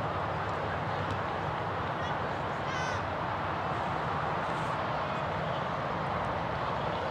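A bird gives one short call about three seconds in, over a steady noisy outdoor background.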